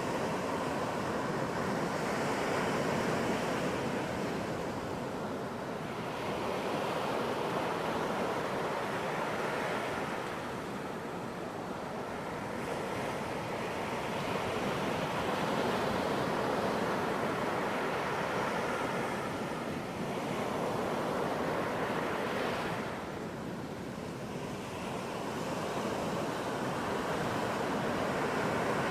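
Ocean waves breaking and washing on a beach, a continuous surf noise that swells and eases every few seconds.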